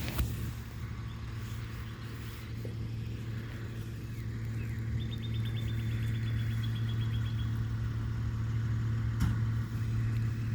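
Garbage truck's diesel engine running steadily at idle, a constant low hum. About halfway through comes a brief, rapid run of high ticks.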